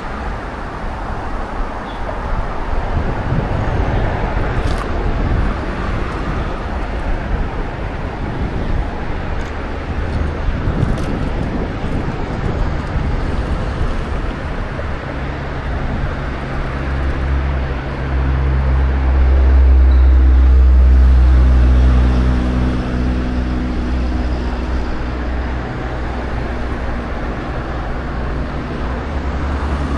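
Road traffic with wind rumbling on the microphone. From about halfway through, one motor vehicle's engine comes up close. It is loudest about twenty seconds in, then fades.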